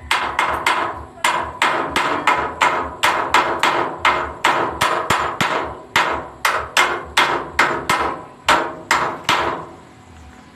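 A hammer striking metal again and again, about three blows a second, each with a short ring, stopping about nine and a half seconds in.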